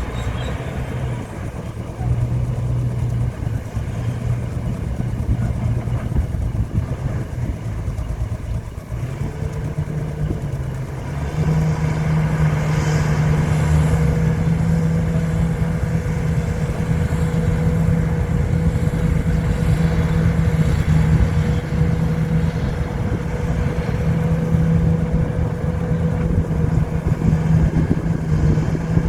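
Diesel engine of heavy earthmoving equipment running under load. Its pitch shifts during the first ten seconds, then rises about eleven seconds in and holds steady at higher revs.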